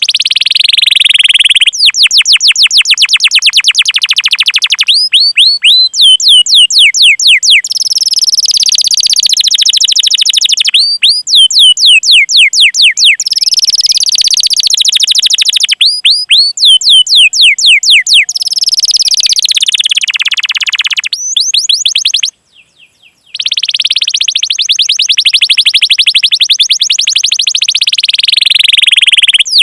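Domestic canary singing a loud, fast song: long rolled trills alternating with quick runs of repeated sweeping 'cuit cuit' notes, with a short break about 22 seconds in.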